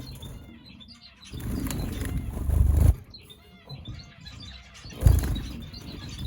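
Cage finches chirping, many short overlapping calls, in a room of zebra finches and Gouldian finches. A low rumble swells up twice, from about one and a half to three seconds in and briefly around five seconds in.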